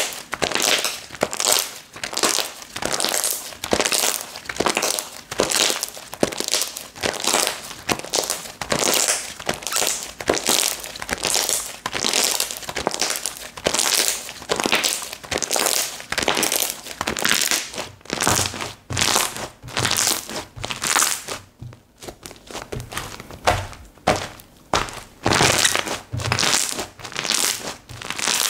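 Slime being squeezed and pressed by hand, giving crackling, crinkling squishes that repeat about one to two times a second, with a short pause about three-quarters of the way through.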